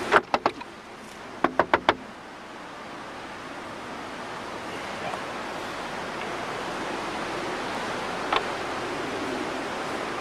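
A steady rushing noise, like wind or running water, that slowly grows louder. Two quick runs of about four sharp clicks come in the first two seconds, and a single click about eight seconds in.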